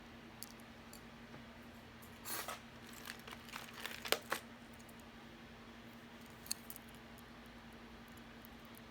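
Faint handling sounds of costume jewelry: a run of small clinks and rustles from about two to four and a half seconds in, and a single click a couple of seconds later, over a steady low hum.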